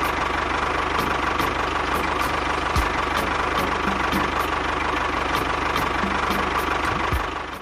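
Small motor running steadily, with faint regular ticking about two or three times a second.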